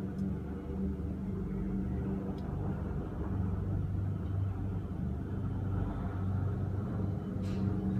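Helicopter running with a steady low drone of rotor and turbine, its deepest tone shifting lower about three seconds in.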